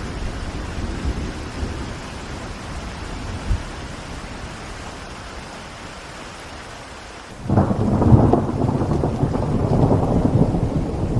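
Steady rain hiss, then about seven seconds in a sudden, much louder rumble of thunder that keeps rolling on.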